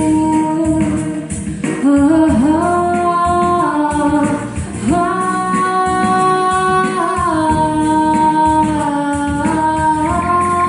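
A girl singing a slow song in long held notes, each lasting two or three seconds, over musical accompaniment.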